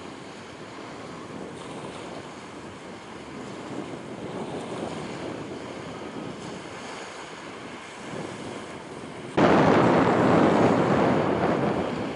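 Wind buffeting the microphone over a steady rush of wind and water, with no clear tone. About nine seconds in it suddenly becomes much louder.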